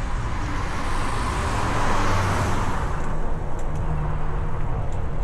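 A car passing close by, its tyre and engine noise swelling over about a second and fading away, over a steady low rumble.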